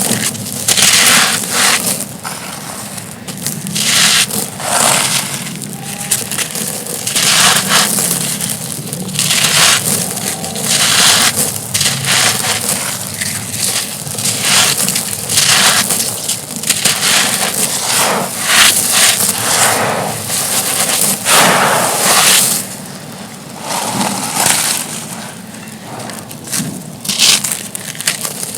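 Soft, dusty, stone-like thin slabs crumbling and crunching in a rapid, irregular run of dry crunches, with grit scraping in between.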